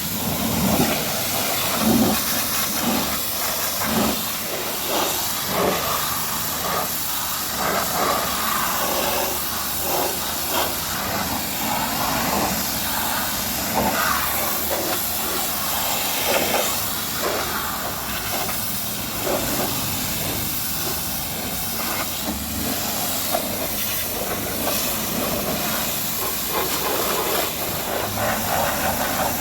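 High-pressure washer jet spraying water onto a car's bodywork: a steady hiss that swells and dips as the jet moves.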